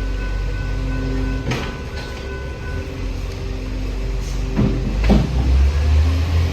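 A train running through the level crossing: a steady low rumble with a few steady tones that stop about three seconds in, and several sharp clunks. A stronger low hum comes in near the end.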